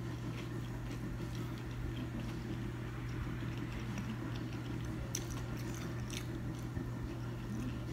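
Close-miked chewing and mouth sounds of a person eating, with a few faint clicks from a fork on the plate about five and six seconds in. A steady low hum runs underneath.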